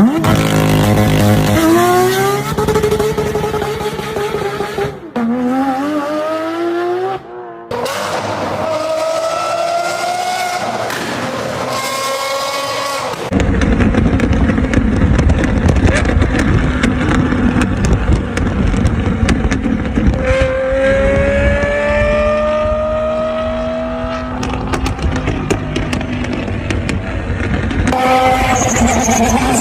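Car engine accelerating hard: the pitch climbs, drops at each upshift and climbs again. The sound changes abruptly several times, as separate recordings are cut together.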